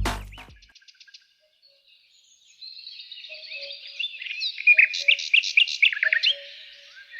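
A short tail of electronic music fades out right at the start. After about two seconds of quiet, small songbirds begin chirping and trilling in quick high notes, busiest around the middle, with a short lower note repeating beneath them.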